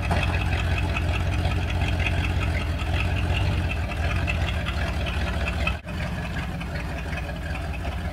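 1980 Dodge Ram pickup truck's engine running steadily with a low rumble, briefly cutting out about six seconds in before carrying on slightly quieter.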